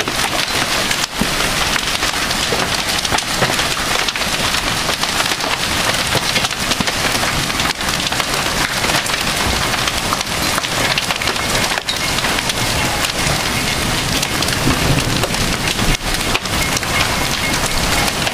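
Hail and heavy rain pelting down: a dense, steady clatter of countless small impacts over a constant rush.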